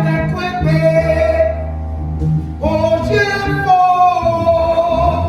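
A worship song: a voice sings two long, drawn-out phrases over guitar and bass accompaniment.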